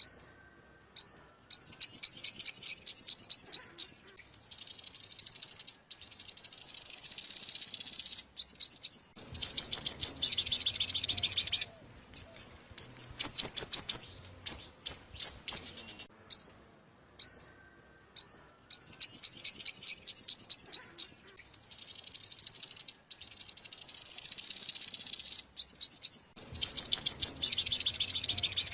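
Sunbird song, the bird called 'five-colour sunbird' in Vietnamese: rapid trills of short, high, down-slurred notes broken by brief pauses. The same sequence of trills repeats about every fourteen seconds, so it sounds like a looped recording.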